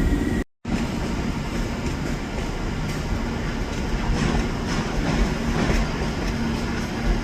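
Train running at a station, a steady rumble with a faint low hum. The sound drops out completely for a moment about half a second in.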